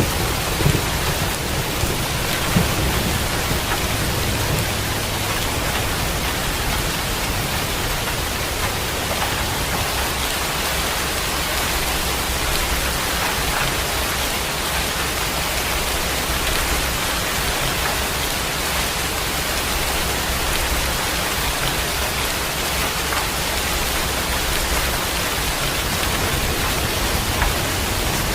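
Steady heavy rain with an even hiss, and the low rumble of thunder dying away in the first couple of seconds.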